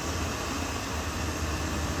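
Caterpillar D6R XL bulldozer's diesel engine running steadily, a continuous low drone with a wash of mechanical noise over it.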